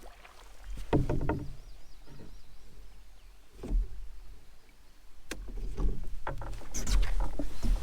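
Canoe on a lake: irregular knocks against the hull and water sounds over a low rumble.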